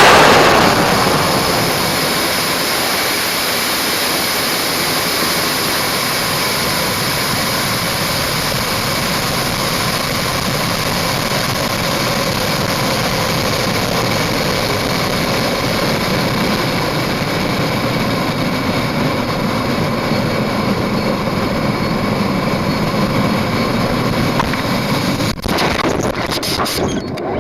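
High-power rocket's M1315 motor igniting and burning at liftoff, loudest at the very start and easing over the first two seconds, followed by a long, steady rushing noise.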